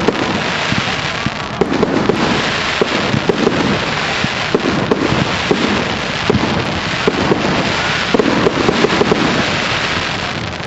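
Fireworks display: a dense, continuous crackle of many rapid, overlapping pops and bangs.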